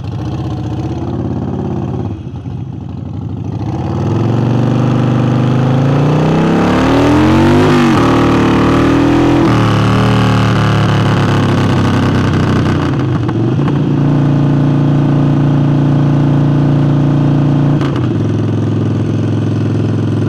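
Harley-Davidson Forty-Eight's air-cooled V-twin, fitted with a new air intake, running low and then pulling away. The revs climb from about four seconds in, drop at a gear change a little before ten seconds, then settle into a steady cruise.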